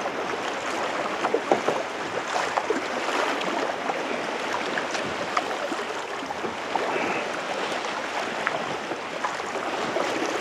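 Kayak paddling: water splashing and dripping off the paddle as it dips and swings, with many small splashes over steady sloshing of water around the boat.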